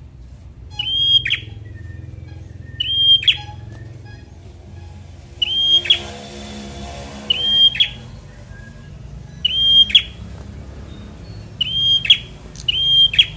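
Prinia (prenjak) repeating a short, loud call about every two seconds: a high held note that ends in a sharp downward flick.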